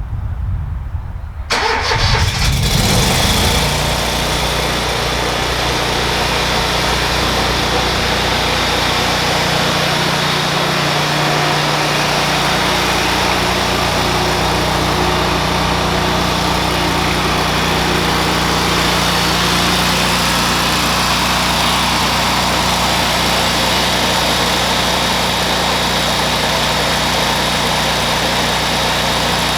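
Pickup truck engine starting about a second and a half in, running louder for a moment, then settling into a steady idle.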